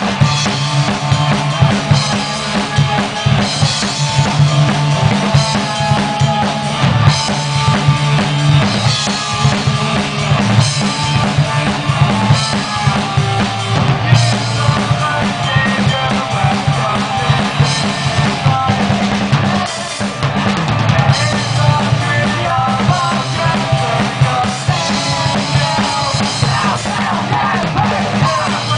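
Live rock band playing: a drum kit with bass drum, snare and rimshots over bass and electric guitar, loud and continuous.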